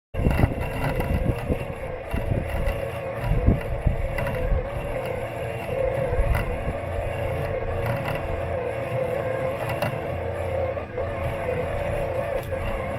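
Robot lawn mower running, heard through a camera taped to its body: a steady motor and blade hum over a low rumble, with a few short knocks as it drives. The sound cuts in suddenly at the start.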